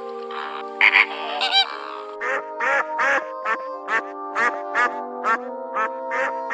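Background music of held notes under a series of short animal calls. A few longer, wavering calls come first, then from about two seconds in a regular run of short calls, about two and a half a second.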